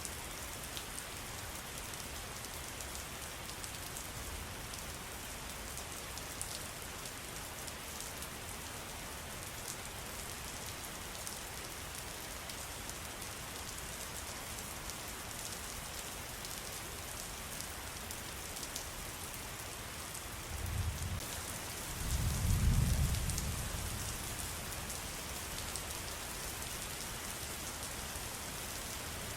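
Steady rain with fine pattering drops. About 21 seconds in, a low rumble builds and peaks a couple of seconds later, then dies away.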